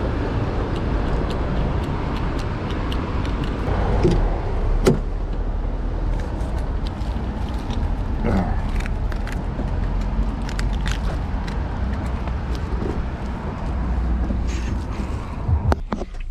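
Steady road traffic and vehicle engine noise with scattered small clicks. Near the end a sharp knock is heard and the outside noise drops away.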